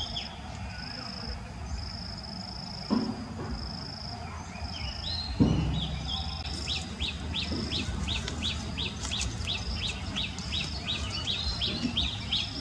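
Outdoor ambience with birds calling: a short high note repeats throughout, and about halfway in a fast run of chirps starts, about three or four a second. A low rumble sits underneath, with two brief louder sounds about three and five and a half seconds in.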